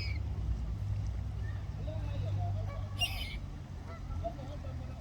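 Common moorhen giving a short, sharp call at the start and again about three seconds in, with fainter short chirps in between, over a steady low hum.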